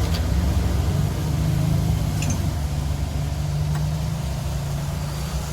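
An engine running steadily at idle with a low, even hum, with a few faint ticks over it.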